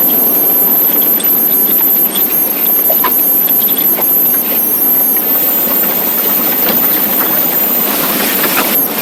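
Motorcycle running on the road, heard as a steady rush of wind and road noise with the engine beneath.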